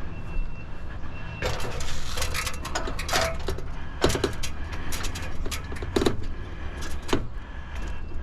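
Irregular scraping and knocking sounds, dense from about a second and a half in, over a steady low rumble.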